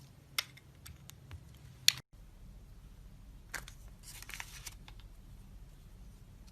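A knife cutting into a bar of soap: a few crisp clicks as the blade bites, the sharpest just before two seconds in, then about a second of crumbly scraping as it carves through.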